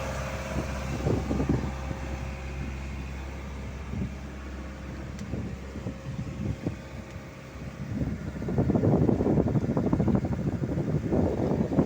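Boat engine running steadily, with wind buffeting the microphone, the gusts growing stronger after about eight seconds.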